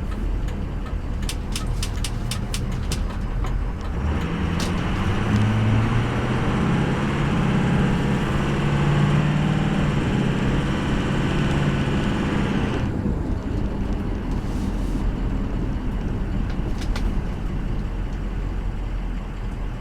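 6.0-litre Powerstroke turbo diesel V8 of a Ford F350 Super Duty pulling the truck under acceleration. The engine note gets louder and rises in pitch from about four seconds in, then eases off after about nine seconds to steady driving noise.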